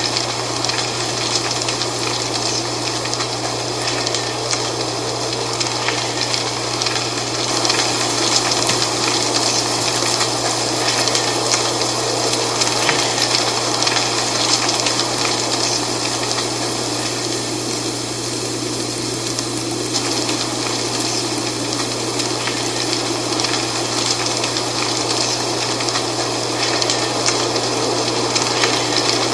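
Dry fall leaves rustling in steady wind: a dense, continuous rustle with fine crackle, over a steady low hum.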